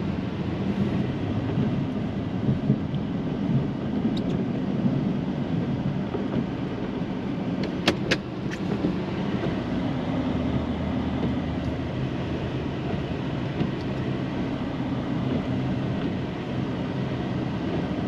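Snowplow truck's engine running steadily as it drives, its pitch shifting a little, with two sharp clicks close together about eight seconds in.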